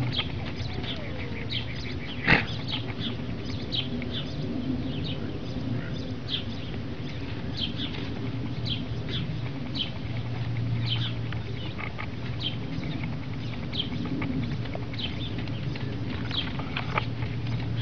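Small birds chirping over and over, about once a second, over a steady low hum, with a sharp knock about two seconds in.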